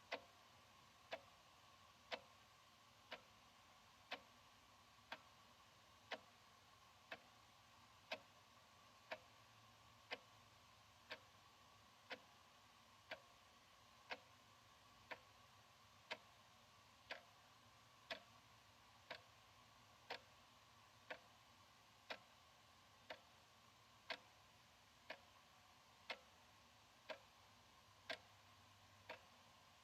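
Analog wall clock ticking quietly and evenly, one tick a second.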